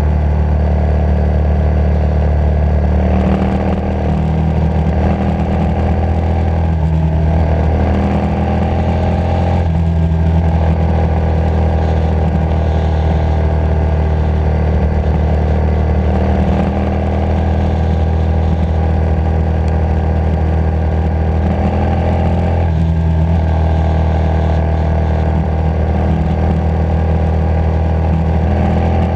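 Motorcycle engine running under way at a steady cruise, its note briefly dropping and picking up again a few times, around four, seven, ten and twenty-three seconds in, as the throttle is eased and reopened.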